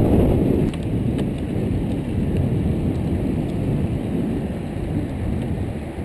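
Wind noise on the microphone of a phone carried on a moving bicycle: a steady, rough low rumble.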